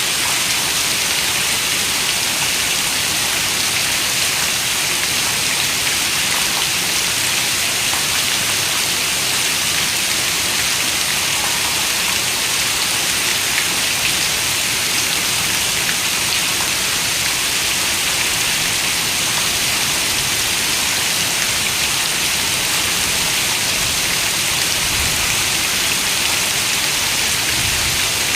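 Steady rain, an even hiss with a few faint ticks of single drops.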